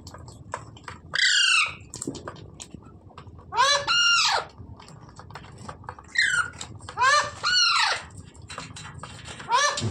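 Pet parrot giving repeated high-pitched squawking calls, some in quick pairs, each call sweeping up and then down in pitch.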